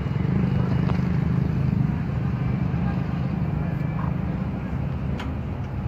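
A steady low engine rumble, with a few faint clicks over it.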